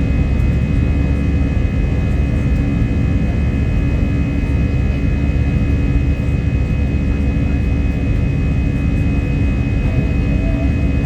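Avianca jet airliner's engines running steadily: a loud, even low rumble with a few steady whining tones over it.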